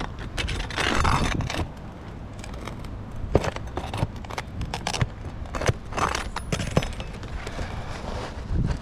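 Metal tool scraping and clicking against asphalt shingles and a roofing nail as the nail is worked loose and pried out, a string of short sharp clicks with a couple of longer scrapes.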